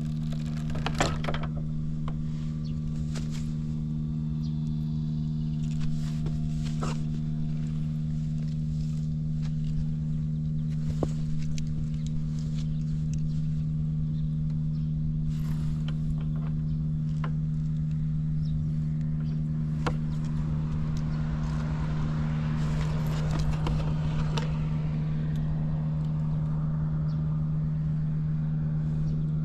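Early Honda Motra AD05's 49 cc single-cylinder four-stroke engine idling steadily after a cold start, with a few light clicks and knocks over it. It runs quietly with no abnormal noise.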